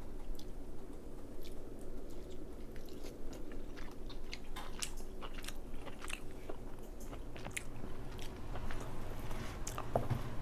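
Close-miked chewing of crab, with small wet clicks and crackles coming at an irregular pace.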